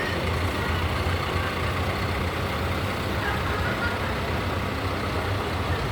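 Tractor engines running steadily, a constant low rumble with a dense wash of engine noise over it.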